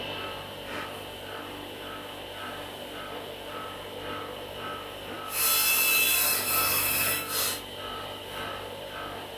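A hand tool rasping across wood in one loud stroke of about two seconds, starting about five seconds in, with a short extra scrape at its end.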